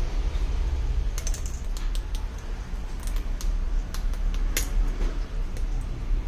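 Keyboard typing: irregular key clicks starting about a second in, over a steady low hum.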